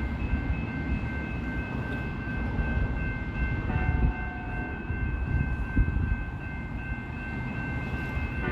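A train rumbling past, with a steady high-pitched ringing throughout and a short two-note horn sound about four seconds in.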